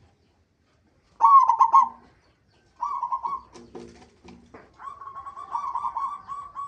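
Zebra dove (perkutut) cooing: two short rolling coos, then a longer trilled coo near the end.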